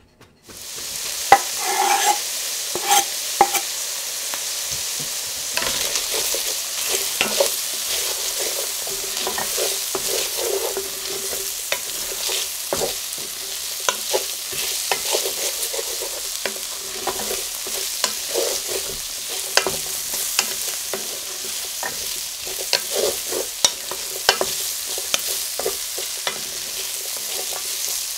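Chopped onion, garlic and ginger frying in a stainless steel pan: a steady sizzle, with a wooden spatula stirring and scraping, knocking against the pan many times. The sizzle starts abruptly at the beginning, and the loudest knock comes about a second in.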